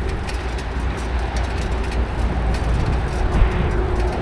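Steady low rumble of wind on the microphone and road noise while riding a bicycle, with a faint steady tone near the end.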